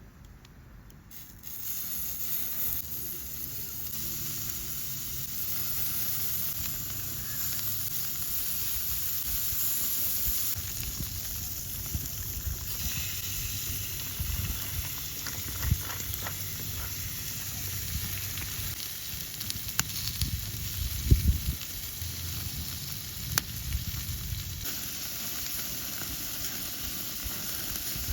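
Meat sizzling on a slotted iron griddle over a campfire: a steady frying hiss that comes in about a second and a half in, with scattered sharp pops.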